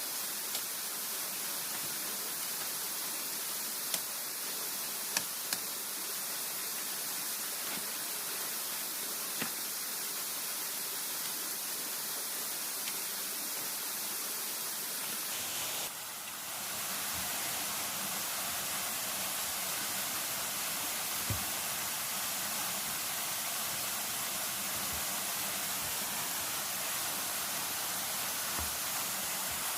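Steady hiss of heavy rain or rushing water, with a few faint sharp ticks. The sound shifts abruptly about halfway through, taking on more low rumble.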